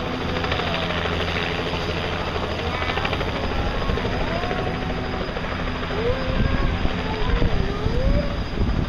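Helicopter running at a steady drone during takeoff, with voices faintly audible beneath it. From about six seconds in, a louder gusty low rumble, like rotor wash buffeting the microphone, joins in.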